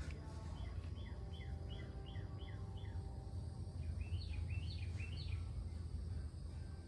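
A songbird sings two runs of quick, repeated chirps, the first from about half a second to three seconds in and the second around four to five and a half seconds. Under it runs a steady low hum.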